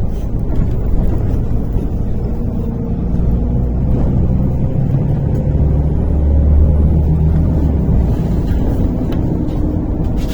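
A MAZ-103 city bus's engine and running gear drone steadily while the bus is under way, heard from inside the passenger cabin. The low drone swells, loudest about six to seven seconds in, as the engine pulls harder.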